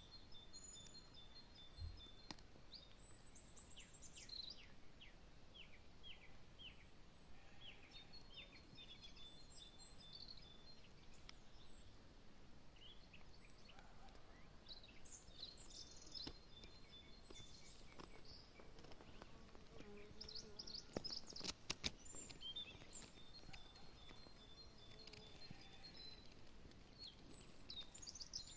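Faint birdsong from several small birds: short chirps, quick repeated notes and high trills, scattered throughout. A few sharp clicks come about two thirds of the way through.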